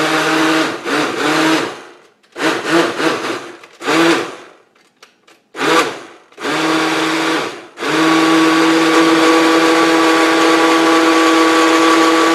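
Blender running on a thick avocado, mayonnaise, egg and oil mixture, started and stopped in several short pulses and then run steadily for about five seconds near the end.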